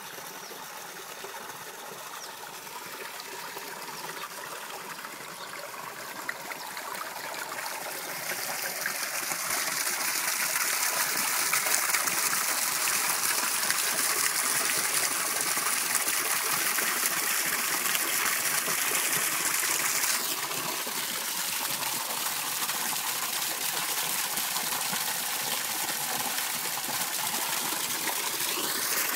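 Running water, a steady trickling flow that grows fuller and louder about a third of the way in, then eases slightly about two-thirds of the way through.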